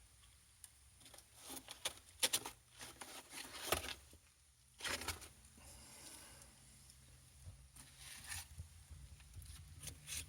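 Freshly lit fire in a brick fireplace crackling and rustling as the kindling catches, in scattered clusters of sharp crackles.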